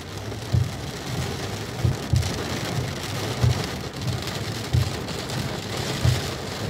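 Heavy rain pelting a car's windscreen, with the windscreen wipers sweeping and thumping low at each stroke, about every second and a bit.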